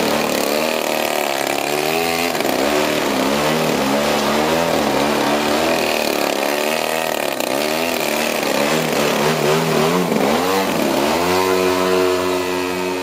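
The 120cc gas engine of a large-scale radio-controlled Edge 540 aerobatic plane running, its pitch swinging up and down over and over. Near the end it settles into a steady, lower note.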